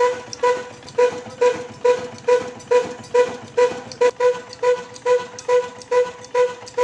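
Old 22 hp black diesel engine running at a slow, steady beat, about two exhaust beats a second, each beat carrying a ringing note.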